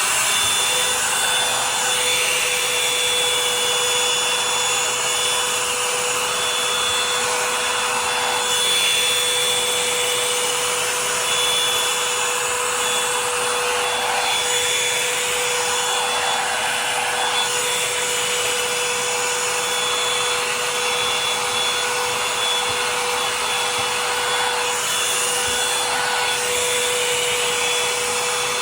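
Revlon hot-air dryer brush running on its high setting: a loud, steady rush of air with a constant motor whine, with faint brushing sounds as it is drawn through wet hair.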